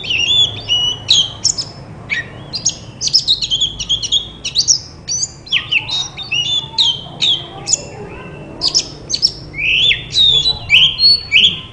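Oriental magpie-robin (kacer) singing vigorously and without let-up: a fast, varied stream of whistled notes sweeping up and down, mixed with harsh chattering phrases, each phrase only a fraction of a second apart.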